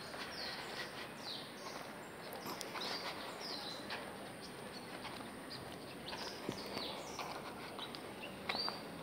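Birds chirping, many short falling calls repeated over and over, with a slightly louder call near the end.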